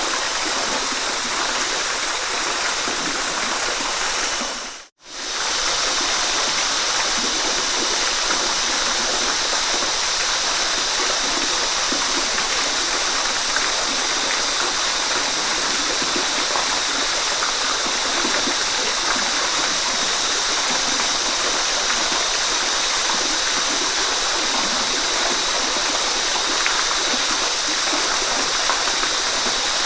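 Waterfall rushing steadily, a dense even hiss of falling water. About five seconds in it fades out to silence and straight back in, a splice in the recording.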